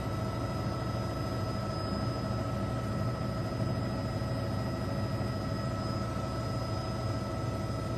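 Helicopter turbine and rotor noise heard inside the cabin: a steady rushing drone with several constant high whining tones that do not change.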